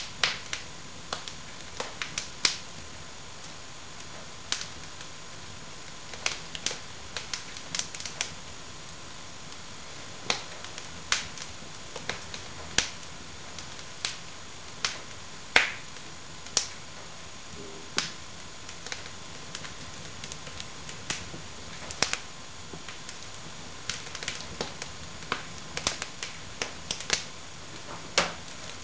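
Fire in a fireplace crackling: irregular sharp pops and snaps, one to several a second, over a steady faint hiss.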